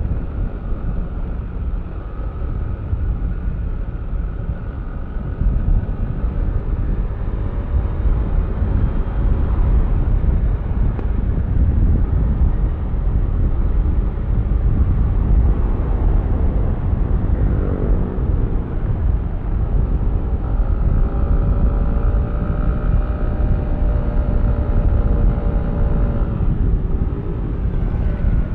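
Yamaha Aerox V3 scooter's 155 cc single-cylinder engine running on the move, under a heavy low rumble. In the second half its note rises and falls with the throttle.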